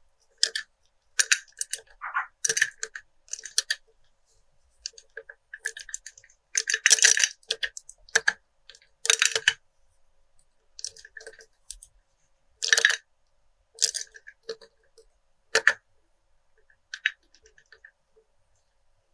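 Pens tapping and clinking against glass in irregular taps and short clusters, each with a brief ringing note, thinning out over the last few seconds.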